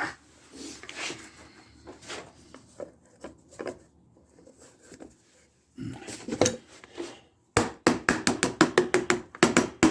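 Hand tools knocking and clattering against the lawn mower's metal parts, then a fast, even run of sharp taps, about seven a second, near the end.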